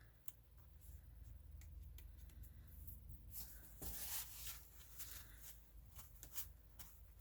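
Faint handling of paper and cardstock: scattered small clicks and soft rustles, with a brief louder rustle about four seconds in.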